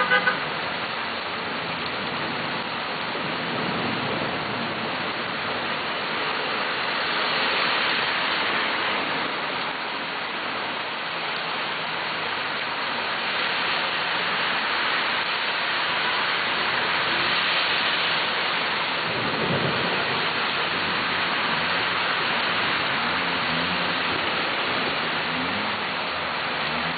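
Rain falling steadily, a dense, even hiss that swells a little twice.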